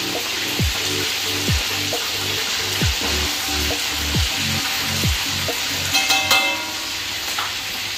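Food frying and sizzling in hot oil in a wok as it is stirred with tongs, with a short metallic clatter about six seconds in.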